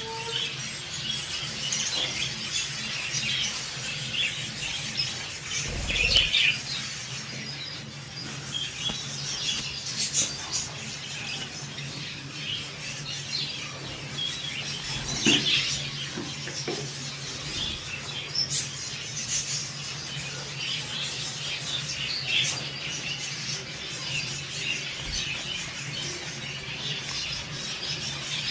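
Pet budgerigars chirping and chattering, with short rapid chirps and squeaks scattered throughout and a couple of louder bursts around six and fifteen seconds in, over a steady low hum.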